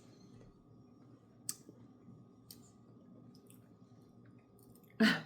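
Quiet room with a few faint, sharp clicks, and one short, louder noise near the end.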